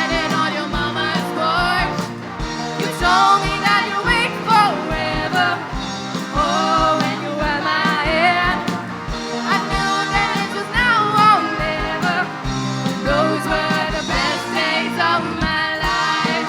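Rock song with a lead vocal over guitar, bass and a steady kick-drum beat.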